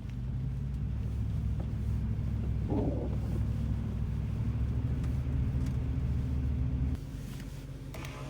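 A vehicle's engine running steadily with a low rumble, as when driving. It drops clearly quieter about seven seconds in.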